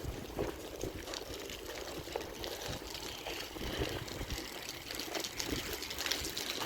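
Water splashing and trickling in an irregular, uneven patter with many small clicks.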